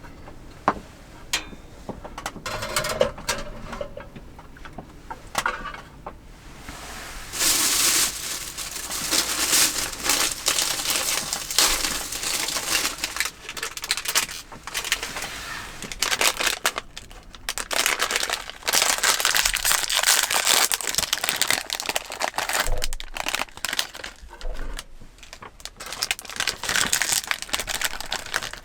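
Close-up handling sounds: irregular rustling and crinkling stretches with many small clicks and knocks, busier from about a quarter of the way in.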